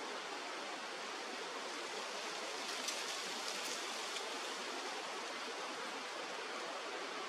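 Steady rush of flowing river water, an even hiss with no pitch, with a few faint high ticks about three seconds in.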